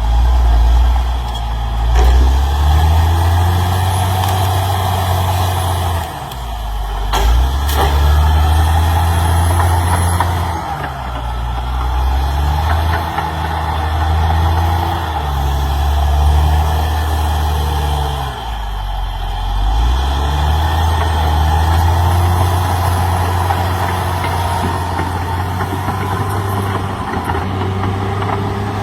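CAT D6R XL bulldozer's diesel engine working, its note sagging and picking up again several times as the load comes and goes.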